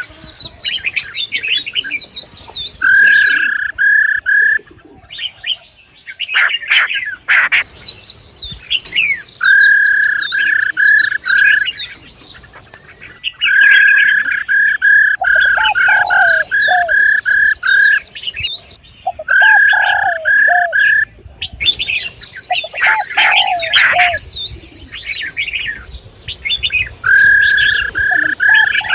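Songbirds calling: rapid high twittering over runs of short, repeated whistled notes, coming in bursts with brief pauses.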